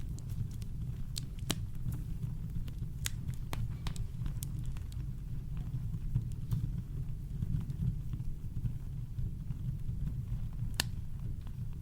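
Campfire crackling, with scattered sharp pops of burning wood, the loudest near the end, over a steady deep rumble of brown noise.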